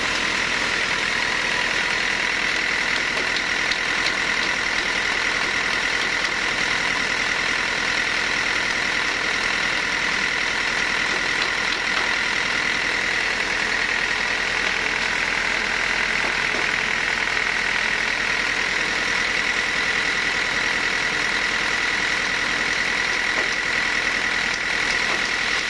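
Sawmill machinery running steadily: a constant mechanical drone with a high whine and no change in level.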